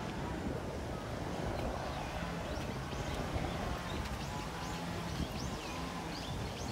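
Birds chirping repeatedly, short high calls coming thick and fast over a steady low background noise.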